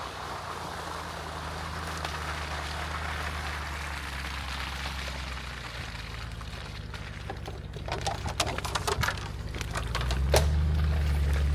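Jeep Wrangler engine running steadily under a hiss of tyre or road noise. A run of clicks and knocks comes in the second half, and the engine grows louder near the end.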